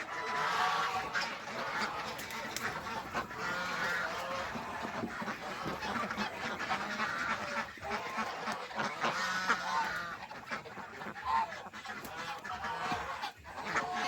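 A flock of domestic geese honking, many short calls overlapping continuously.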